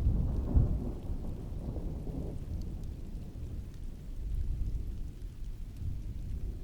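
Heavy rain falling steadily with a roll of distant thunder that is loudest in the first second and fades away over the next two seconds or so, leaving a low rumble under the rain.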